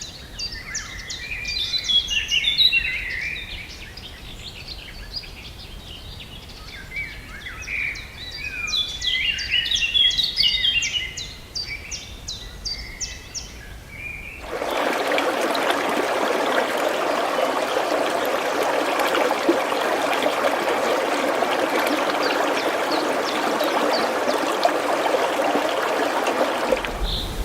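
Songbirds singing in two bursts of rapid chirping phrases. About halfway through the sound cuts abruptly to a steady rush of running water.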